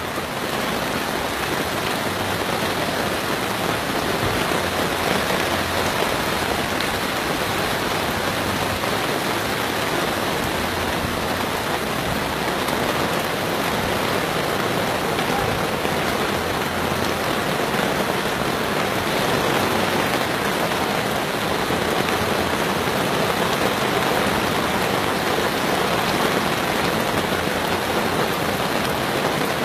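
Heavy rain pouring down steadily, a dense, even hiss of rain on surfaces.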